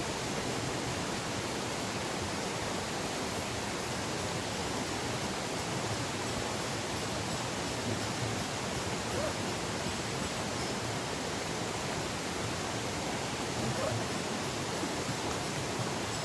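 Steady rushing of a mountain stream: an even, unbroken wash of water noise.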